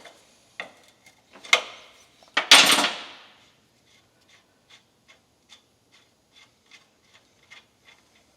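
Knocks and a short scraping rub as the fuel tank of a 1950 REO engine is opened and checked for gas, followed by faint, even ticking about two or three times a second.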